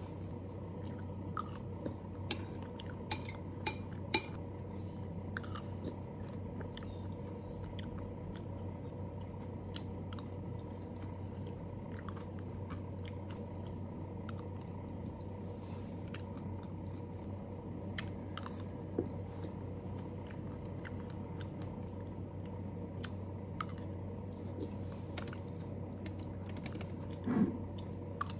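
Close-up eating sounds: a person chewing a creamy salad taken from a bowl with a metal spoon, with occasional crunches. A few sharp clicks of the spoon against the bowl stand out, loudest in the first few seconds and again near the end. A steady low hum runs underneath.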